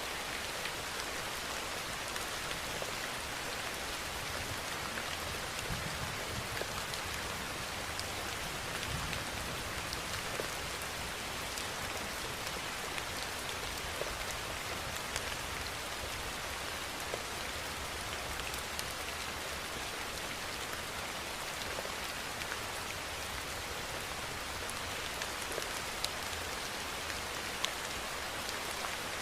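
Steady rain falling and pattering on a surface, a dense even hiss of drops with many small distinct drop ticks.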